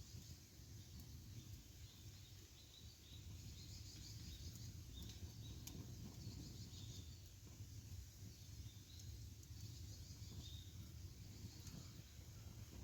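Faint wood campfire burning with a low steady rumble and a few sharp crackles, under faint high chirping in the background.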